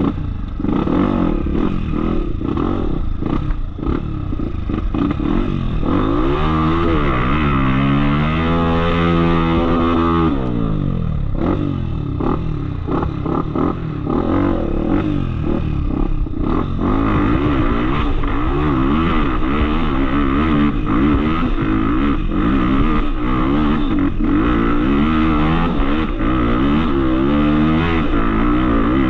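Off-road motorcycle engine revving up and down under load, rising to a held higher rev about six seconds in and dropping back about ten seconds in, with scattered knocks and clatter.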